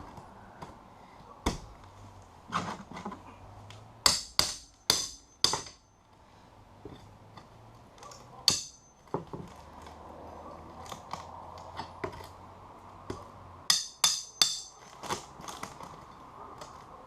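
Sharp knocks and chopping strikes of a hand tool tearing out rotten plywood from a sailboat's cabin side wall, in two quick runs of about four blows with scattered single knocks between.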